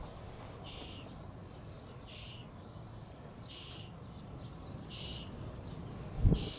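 Strong wind rumbling against the microphone, with one hard buffet of a gust near the end. Over it, a short high call repeats evenly about every second and a half, five times.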